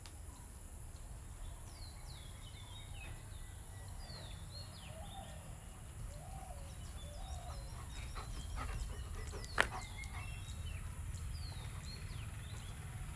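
Birds calling outdoors: many short, quick downward chirps repeated throughout, over a steady low rumble, with one sharp click about two-thirds of the way through.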